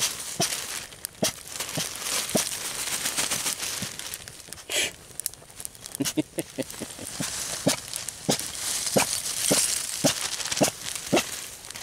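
Irregular sharp crackles and clicks, a few each second, over a steady hiss, with one short higher-pitched sound about five seconds in.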